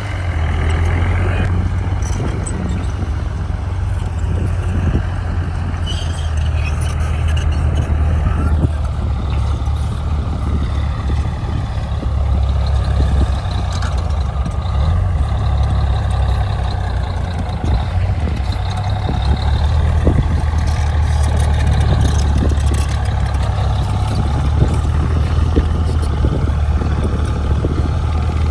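Heavy diesel earthmoving machinery running steadily under load, a deep engine drone with scattered knocks and clanks.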